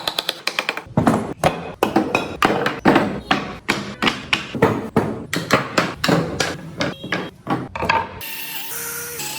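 Hand tool striking wood over and over, sharp taps about three to four a second, as in carving or shaping a wooden piece. Near the end the tapping stops and background music comes in.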